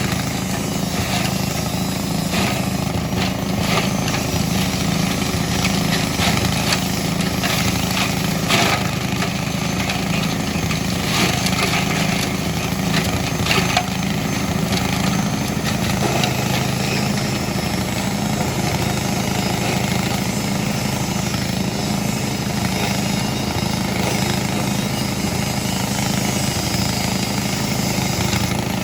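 A grass chopper machine (pencacah rumput) running steadily with a loud low hum, with scattered sharp crackles over the first half that then even out.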